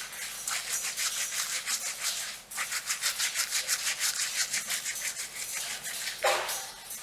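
Fingernails scratching a scalp through hair with rapid, rhythmic strokes, several a second, pausing briefly about two and a half seconds in.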